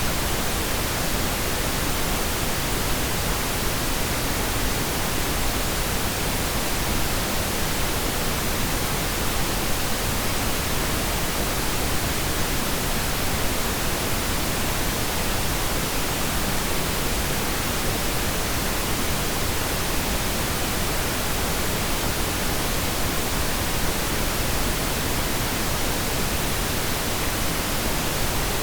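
Steady pink noise: an even, unchanging hiss with no separate events.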